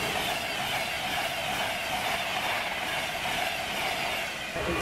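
High-speed LNER express passenger train passing at speed on the main line: a steady rush of wheel and air noise with a faint whine that falls in pitch as it goes by. It cuts off abruptly about four and a half seconds in.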